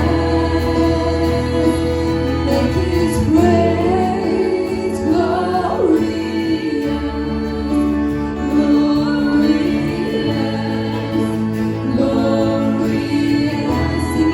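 Christian worship song: voices singing over held chords and a low bass line that shifts every few seconds.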